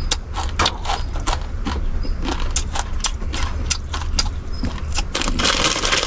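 Close-up crunching of dry, uncooked instant noodles being chewed, in short irregular crunches over a low hum. About five seconds in, a louder crinkling rustle starts.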